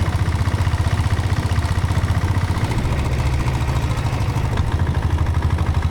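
Diesel Royal Enfield Bullet's Lombardini single-cylinder diesel engine idling, with a steady, rapid beat of about eight pulses a second.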